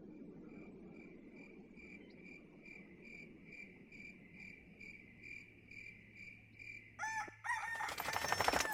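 A small animal's call, most like an insect: one high note repeated evenly about three to four times a second. About seven seconds in it gives way to a brief, louder, different sound.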